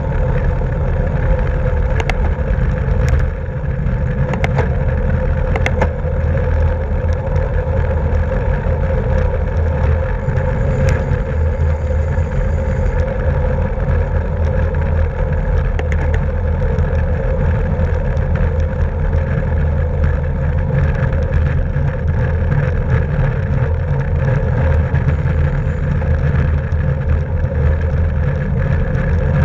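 Steady wind rush and rumble on a bike-mounted camera's microphone while riding at race speed, with a few sharp clicks in the first six seconds.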